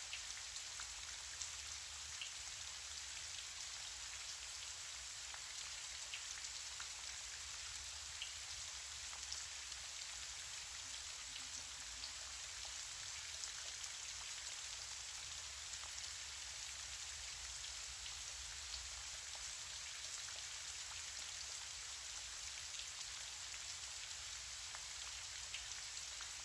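Steady gentle rain falling, an even patter with occasional individual drop ticks.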